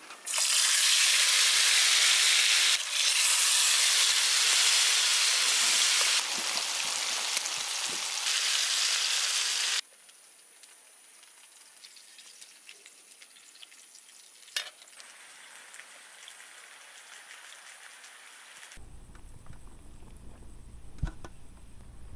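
Food dropped into hot oil in a small pan on a camping gas stove, the oil sizzling loudly. The sizzle cuts off suddenly about ten seconds in, leaving a quiet background with a single click.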